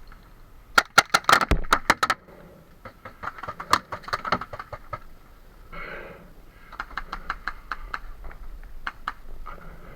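Paintball markers firing: rapid strings of sharp pops, with scattered single shots between.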